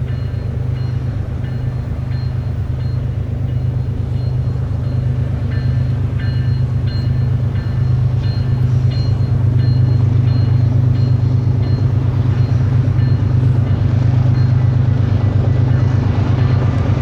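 Diesel freight locomotives approaching, their engines a steady low drone that grows slowly louder. Short high pings repeat at an even pace over the drone.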